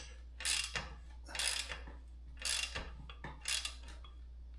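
Headset cup press being tightened to draw a cup into a steel bicycle head tube: short metallic ratcheting bursts about once a second as the cup seats.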